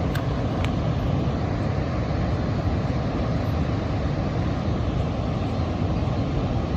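Steady low rushing noise that does not change, with two faint clicks in the first second.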